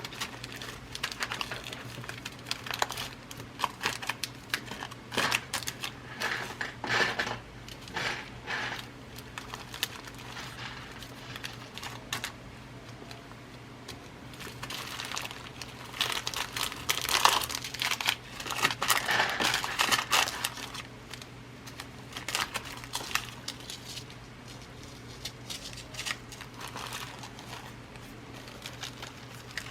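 Packets of glass seed beads being handled and rustled, crinkling with many small clicks. The handling is busiest in the middle, then eases off.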